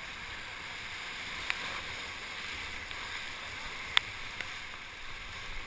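Steady rush of river water around a paddle raft, with a few short sharp knocks, the loudest about four seconds in.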